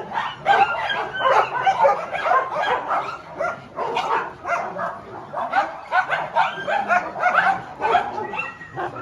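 A pack of dogs barking and yipping together, many short calls overlapping without a break.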